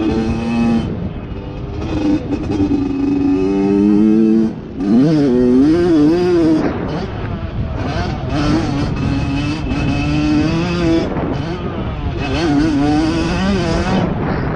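Dirt bike engine under way, its pitch repeatedly climbing with the throttle and dropping back off, with a brief dip in loudness about four and a half seconds in before it climbs again.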